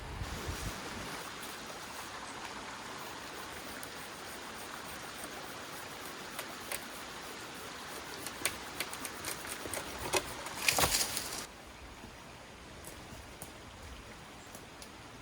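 Steady rushing outdoor background with scattered small clicks, a brief louder rustle about eleven seconds in, after which the background is noticeably quieter.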